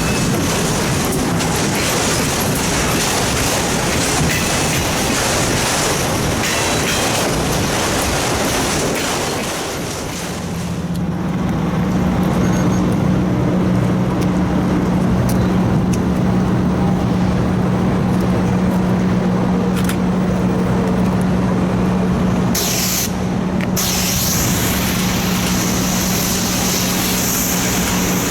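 A freight train rolling past for about the first ten seconds, with the rattle of wheels on rail; after a brief dip, a steady humming engine drone carries on to the end.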